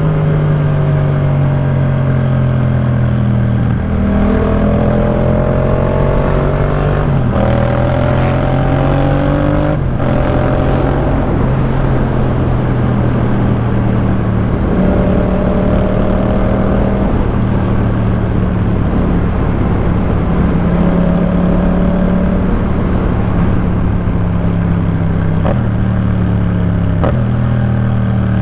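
Yamaha MT-07's parallel-twin engine through a Jeskap K4 full exhaust system, under way. Its revs climb and drop back through upshifts about four, seven and ten seconds in, then hold steady while cruising, with another couple of gear changes near the end.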